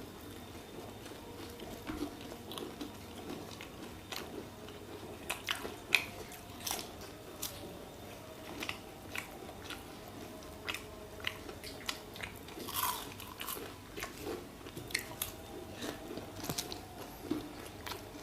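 People chewing and biting into jilapi (jalebi), the syrupy fried sweet, with irregular wet crunches and mouth clicks, the loudest about six seconds in.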